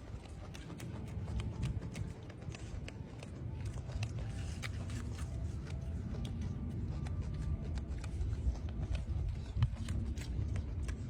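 A small bird pecking and picking at food: irregular sharp little clicks over a low rumble.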